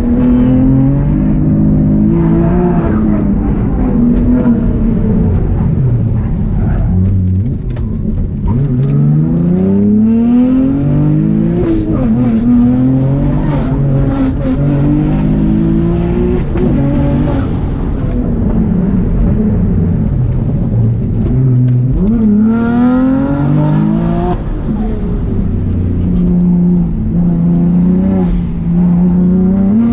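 BMW 135i's tuned N54 straight-six, heard from inside the car during a flat-out track run. The revs climb, drop back and climb again several times as the car accelerates, lifts and changes gear, with long rising pulls about a third of the way in and again near three-quarters.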